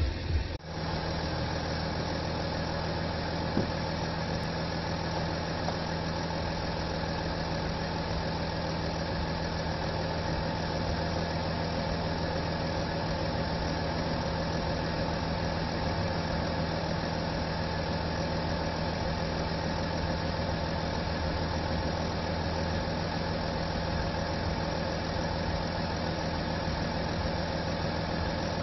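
Audi A6 Allroad's 3.0 TDI V6 diesel engine idling steadily, with an even low hum that does not change.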